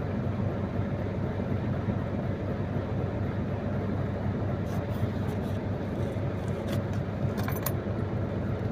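Truck diesel engine idling steadily with a low hum, with a few light clicks in the second half.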